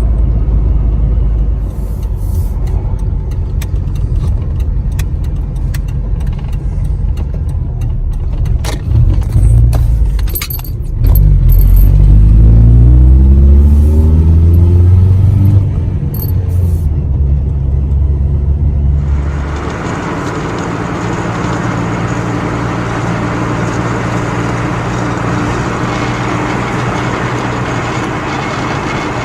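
Truck driving: a low engine rumble with light rattling clicks. About 11 seconds in the engine revs rise, then from about 19 seconds a steady rush of road noise takes over.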